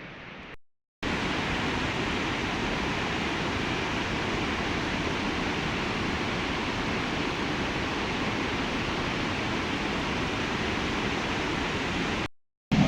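Steady, even rushing of water, with no rhythm or tone, starting abruptly about a second in and cutting off just before the end.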